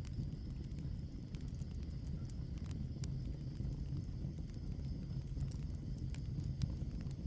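Wood fire in a fireplace crackling: irregular sharp pops and snaps from burning logs over a steady low rumble of the flames.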